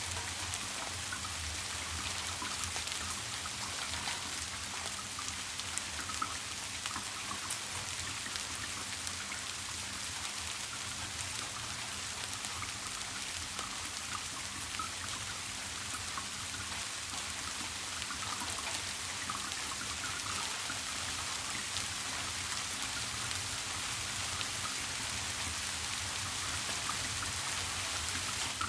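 Steady rain with a dense patter of individual drops, even and unbroken, over a low steady hum.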